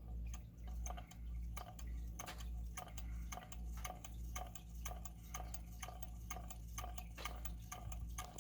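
Small hot-water Stirling engine running, its flywheel and piston linkage making a steady rhythmic ticking of a few clicks a second.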